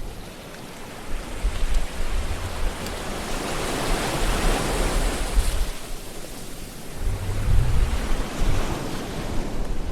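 Sea waves breaking and washing in, the surf noise swelling to a peak about halfway through and easing off, with low rumbles of wind on the microphone later on.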